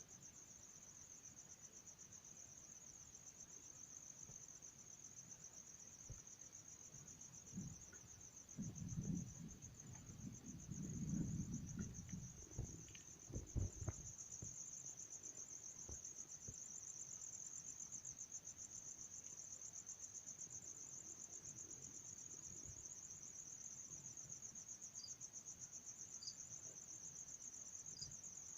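Insects trilling steadily in a continuous high-pitched, finely pulsing drone. A cluster of low thumps and rumbles comes about a third of the way in.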